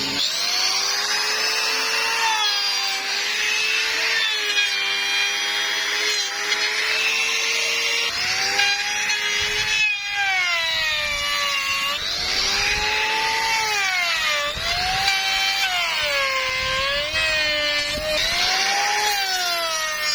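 A handheld electric power tool cutting a profile into wood. Its motor whine drops in pitch each time the cutter bites into the wood and rises again as it eases off, over and over.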